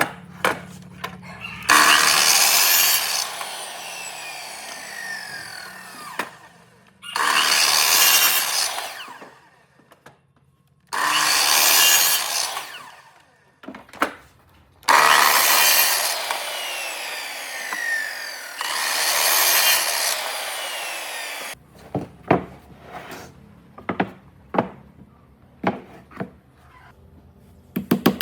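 Wood being cut or shaped with a tool in five loud passes of one to two seconds each, a few seconds apart, followed by scattered light knocks and a quick run of clicks near the end.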